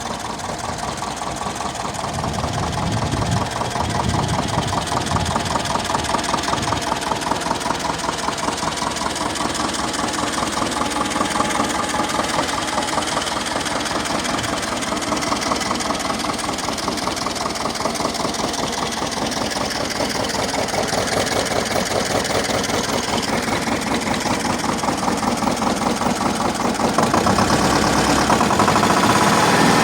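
Bertolini 440 tractor's two-cylinder, oil- and air-cooled VM 102 diesel engine running steadily with a rapid, even diesel knock, growing louder near the end.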